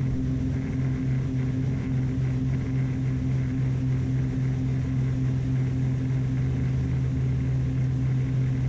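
Twin propeller engines of a Beechcraft Baron B55 running at full takeoff power, a steady low drone heard in the cockpit as the plane accelerates through about 84 knots and lifts off.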